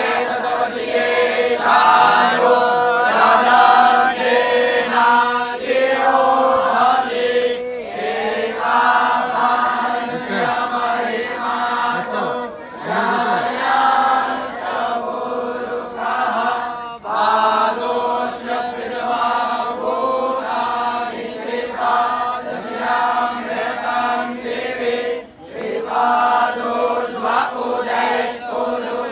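A group of voices chanting Vedic mantras in unison, holding steady notes, with brief pauses for breath between verses.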